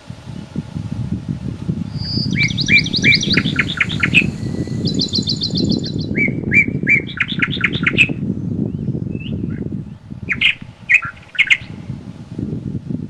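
Wind blowing through woodland, a steady low rumble, with a songbird singing fast runs of repeated high notes over it, then a few shorter calls near the end.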